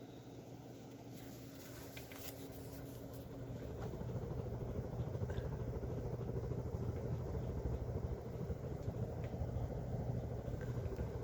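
1931 Emerson Longnose ceiling fan running with a steady low hum from its motor, growing louder over the first few seconds as it picks up, then holding steady.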